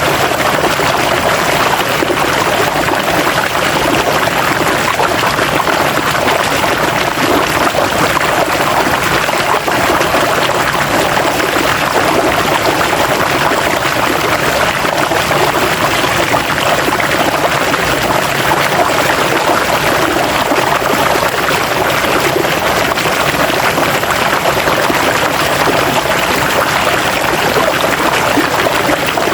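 River water flowing and rushing over rocks: a steady, even splashing with no let-up.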